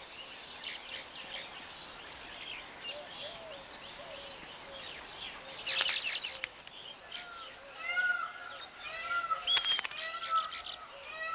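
Weaver birds calling: many short, repeated arched chirps, with a loud noisy burst about six seconds in and busier chirping with a few sharp clicks in the second half.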